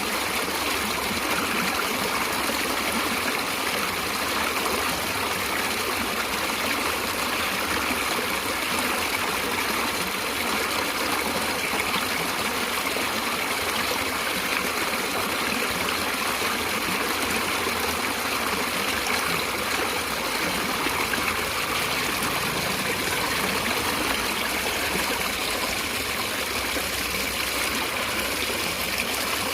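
Steady rushing and trickling of a natural stream flowing over rocks, an even, unbroken water sound.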